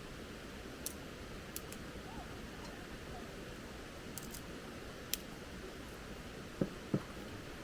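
Steady rushing of a mountain stream, with a few faint sharp clicks of camp gear being handled and two short knocks near the end.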